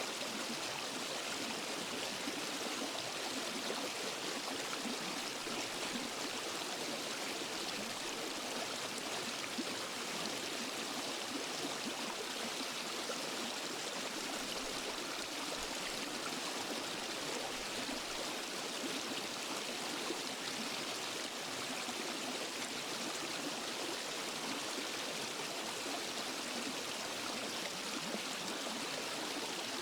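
Water rushing steadily over a small waterfall and down a rocky forest stream: an even, unbroken splashing hiss.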